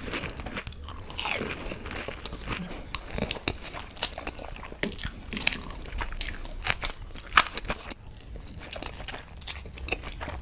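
A person biting into and chewing crunchy food close to the microphone: a long run of irregular crisp crunches.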